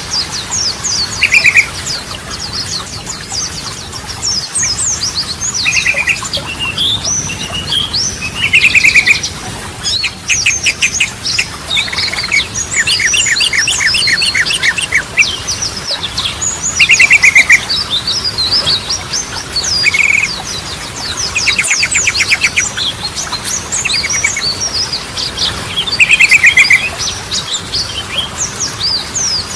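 Sooty-headed bulbul (trucukan) singing: short, loud bubbly phrases repeated every few seconds, over a dense run of quick chirps and rapid trills.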